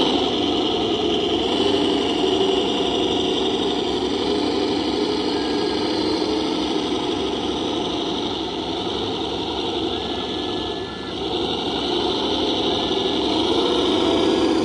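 Radio-controlled model construction machines running: a steady mechanical whir and engine-like drone, with a few short faint whines and a brief dip in level about three quarters of the way through.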